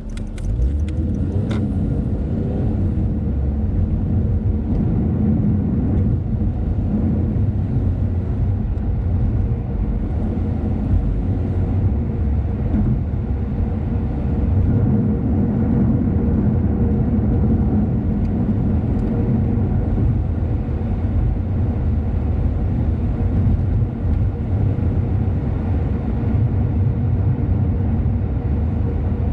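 Car on the move: steady engine and road rumble, with a rising engine note in the first couple of seconds as it picks up speed.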